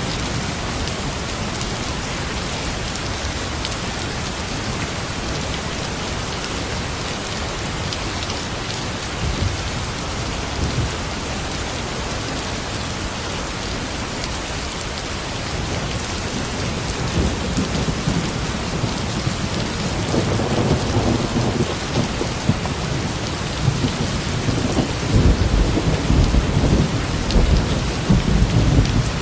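Steady rain falling, with a low rolling rumble of thunder that builds over the second half and grows loudest near the end.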